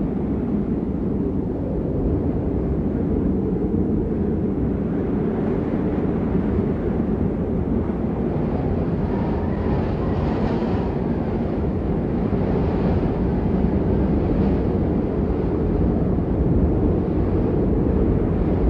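Storm wind buffeting the microphone: a steady, heavy low rumble with a faint higher rush rising and falling in gusts.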